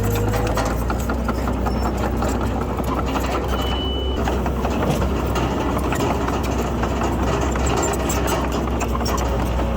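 Heavy diesel earthmoving machinery engine running steadily under a constant rattle, with one short high beep about four seconds in.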